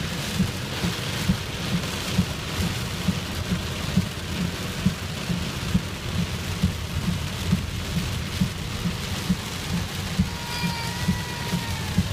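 Heavy rain hammering on a car's roof and windshield, heard from inside the moving car, with a regular low thump about twice a second.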